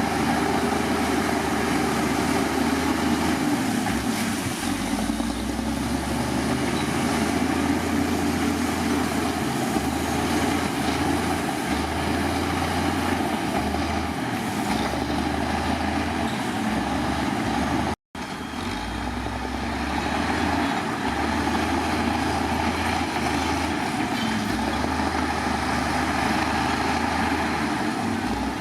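Heavy diesel earthmoving machinery engines running steadily with a low drone. There is a momentary break in the sound about two-thirds of the way through.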